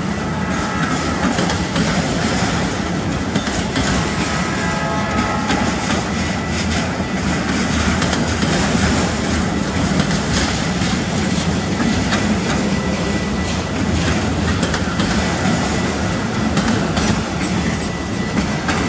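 Autorack freight cars rolling past close by: steel wheels on the rails give a steady rumble with clickety-clack over the rail joints. Brief faint wheel squeals come about half a second in and again around four to six seconds in.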